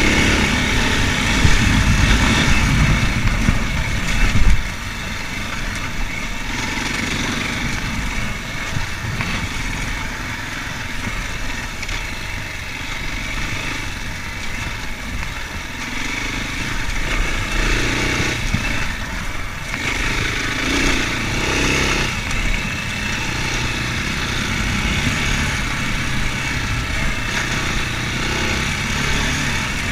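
Racer Panther 300 enduro motorcycle engine running under way. A heavy low rumble makes it louder for the first four or five seconds, after which it runs steadier and a little quieter, its pitch shifting up and down now and then.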